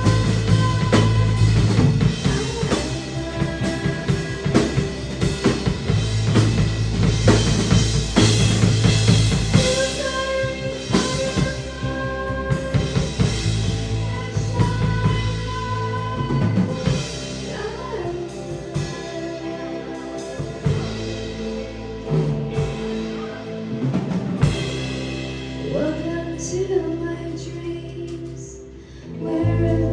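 Live rock band playing: drum kit with snare and bass drum under sustained instruments and a sung vocal line. The drumming is busiest for the first ten seconds or so, and the band drops briefly near the end before coming back in.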